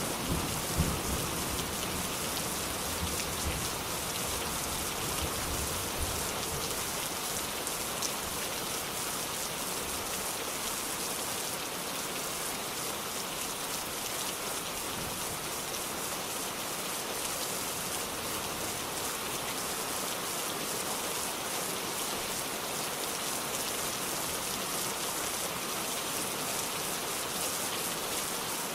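Steady, dense rain falling, with a low rumble of thunder dying away in the first few seconds.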